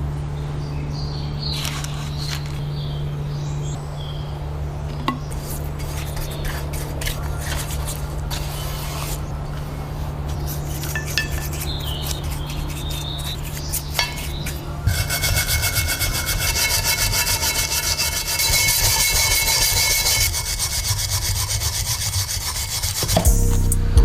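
Abrasive rubbing and filing on stapler parts during restoration, over a steady low hum; the rubbing grows brighter and harsher about fifteen seconds in.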